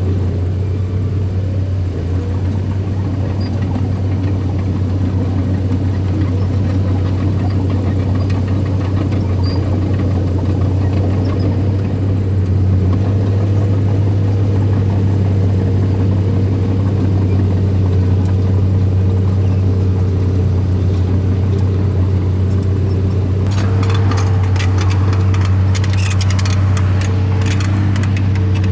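Earthmoving machine's engine running steadily at a constant pitch, with a spell of clattering and rattling from about 23 seconds in that lasts several seconds.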